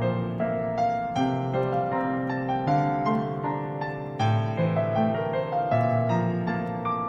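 Gentle piano music, notes struck one after another and left ringing.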